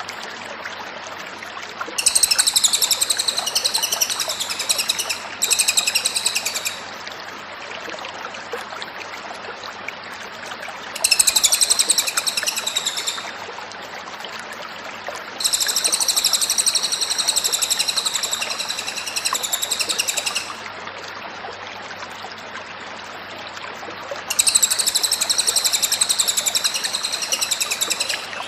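Cililin bird singing in loud bursts of rapid, high-pitched warbling trills, five phrases of about two to five seconds each with short pauses between.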